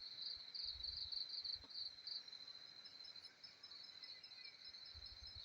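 Crickets chirping in a steady, high-pitched pulsed rhythm, several pulses a second, with faint low rumbles underneath.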